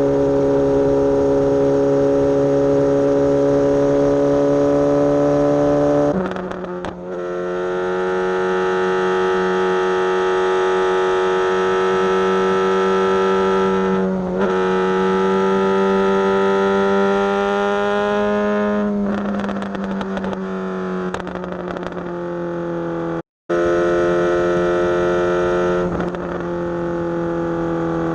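Suzuki GSX-S750 inline-four motorcycle engine running under way at a steady cruise. Its pitch shifts a few times with brief dips in level, as at gear changes, and the sound cuts out for a moment near the end.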